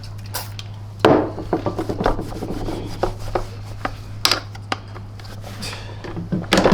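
A rag rubbing polish onto a vacuum cleaner's body by hand: irregular rubbing strokes and light knocks begin about a second in, over a steady low hum.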